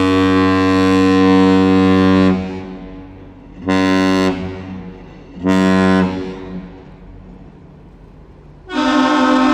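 A large ship's horn sounds one long, deep blast, then two short blasts. Near the end a different, higher horn with two tones starts a long blast.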